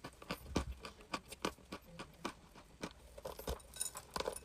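Crunchy chalk crunching: an irregular run of sharp, crisp cracks, several a second.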